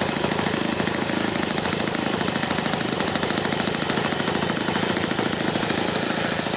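Glow-fuel engine of a radio-controlled model warplane running steadily, a fast even buzz.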